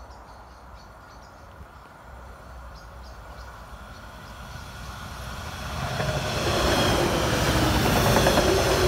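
A Siemens Desiro Classic diesel multiple unit approaching and passing close by. It is faint at first, grows steadily louder from about halfway through and is loudest near the end as it passes, with engine rumble and rail noise.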